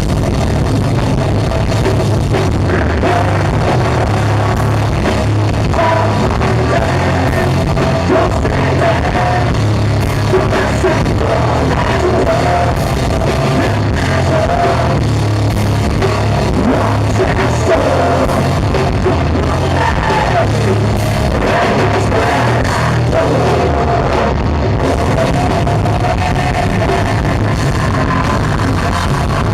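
Live rock band playing loud and steady, with electric guitar, drums and a singer's vocals.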